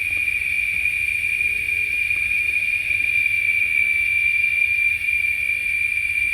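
Steady insect chorus: a constant, unbroken drone on one high note with no pauses.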